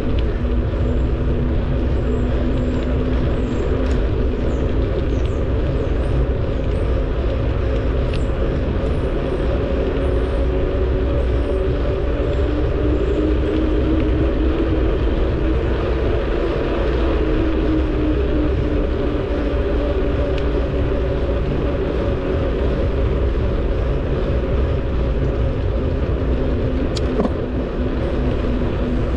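Wind rushing over the microphone of a camera riding along on a moving bicycle, with a steady hum that drifts a little in pitch. Faint bird chirps come through in the first half, and a single click sounds near the end.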